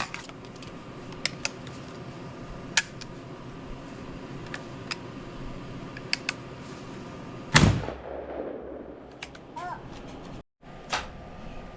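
One loud gunshot about two-thirds of the way through, with a short ringing tail; a few faint sharp clicks come before it.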